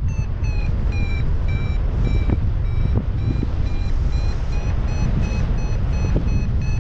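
Paragliding variometer beeping: short high beeps about two to three a second, its climb tone signalling rising air. Strong wind rumbles on the microphone underneath.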